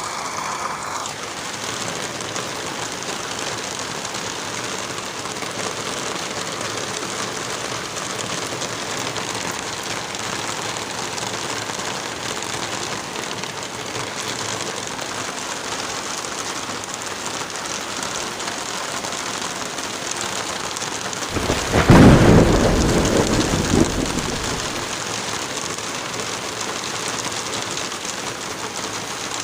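Steady heavy rain falling, with a single thunderclap breaking in about three quarters of the way through and rumbling away over about three seconds.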